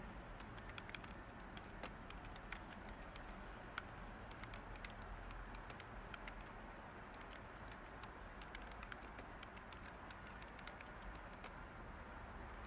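Light, irregular typing on a computer keyboard, soft key clicks over a steady background hiss of white noise.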